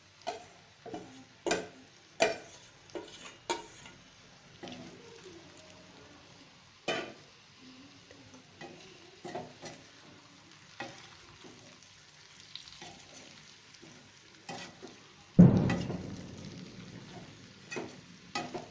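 Frying in a pan of hot oil, with a spatula knocking and scraping against the pan as it stirs, the knocks coming thick in the first few seconds and then scattered. About fifteen seconds in, a sudden loud burst fades off over a couple of seconds, as the marinated chicken goes in.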